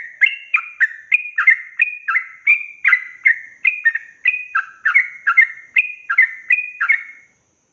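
Yellow-vented bulbul singing a long, rapid run of short repeated bubbling notes, about three a second, that stops suddenly near the end.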